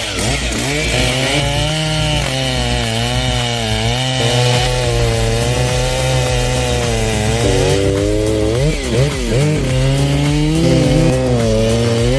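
Chainsaw engine running under load as it cuts wood, its pitch sagging and recovering over and over, with a few quick revs about eight to nine seconds in.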